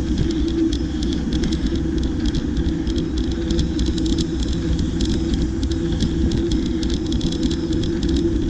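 Bicycle riding: steady tyre and wind rumble with a rapid scatter of small rattling clicks.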